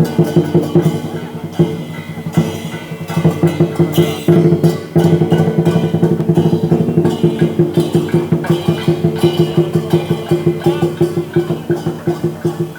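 Lion dance percussion: a drum beaten in a fast, steady rhythm, with ringing metal percussion sounding underneath.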